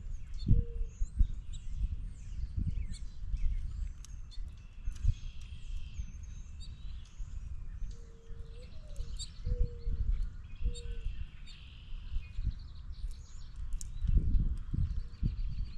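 Wild birds chirping and calling in scattered short notes. A low cooing call comes about half a second in and again about nine to eleven seconds in. Low thumps run throughout, most of them near the end.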